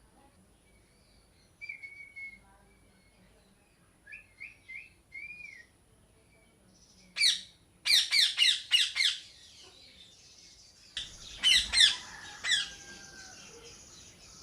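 Parrots calling: a few soft whistled chirps, then two loud bursts of rapid, harsh squawks, each about a second or two long.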